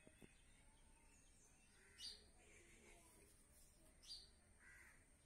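Faint bird calls over near silence: a short chirp falling in pitch about every two seconds, with softer calls between them.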